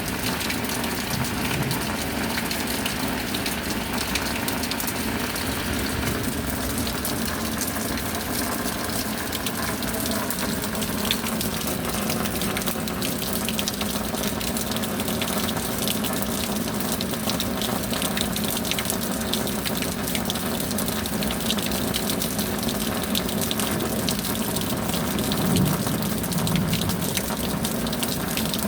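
Steady rain, dense and even, with many small drop impacts heard through it.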